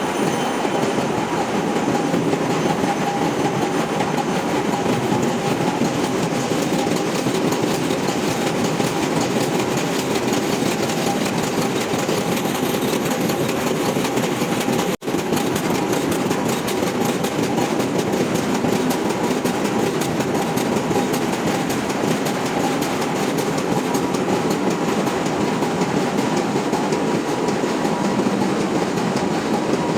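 Loud, steady machinery noise of a ship's engine room running, with a faint steady whine on top; it breaks off for an instant about halfway through.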